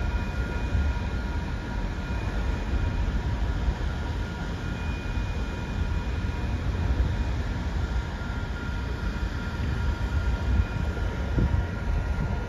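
Distant train approaching down the line: a steady low rumble with faint steady high tones over it.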